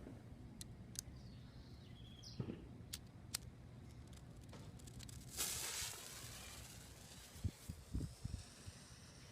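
A short hiss of under a second about halfway through, like a lit firework fuse, among a few sharp clicks earlier on and a few soft thumps near the end.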